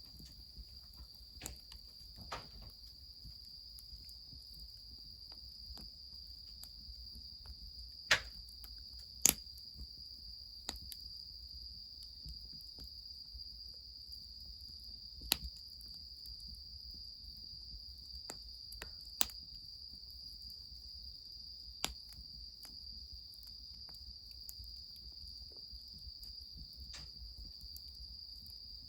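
Crickets trilling steadily in one high, unbroken band. Several sharp cracks stand out over it, the loudest about eight and nine seconds in, with others around fifteen, nineteen and twenty-two seconds.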